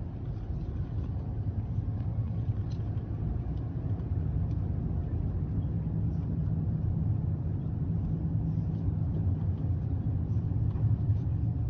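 Steady low rumble of a road vehicle running, with a few faint ticks now and then.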